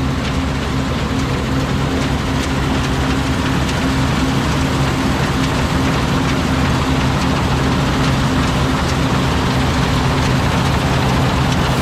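Claas combine harvester running with a steady, unchanging engine note.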